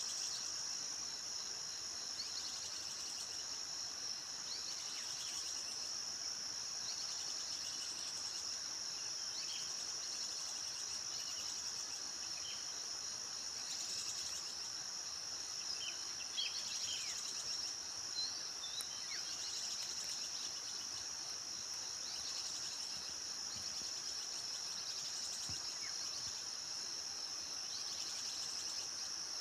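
Forest ambience: a steady high-pitched drone of insects, with scattered short bird chirps and quick falling whistled notes over it.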